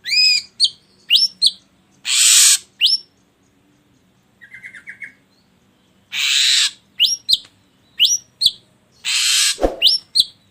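Ashy drongo calling in repeated phrases. Three harsh, rasping notes of about half a second each are each followed by a few quick, sharp whistled notes that sweep up and drop. A faint, fast chatter comes about halfway through.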